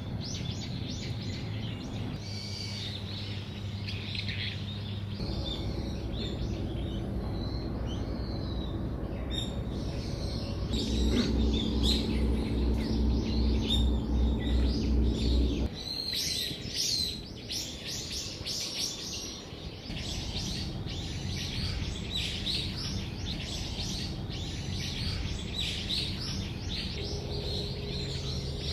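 Small birds chirping and calling, many short quick notes over and over. Beneath them runs a low steady hum that changes abruptly several times and is loudest around the middle.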